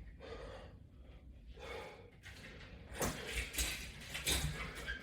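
A man breathing hard from exertion during resistance-band squats and pulls, with a puff of breath about every second and a half. In the last two seconds come louder rustling and scuffing noises.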